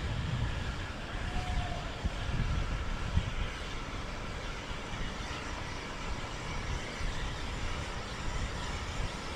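Steady low rumble of passing boat engines over the noise of water, with wind buffeting the microphone.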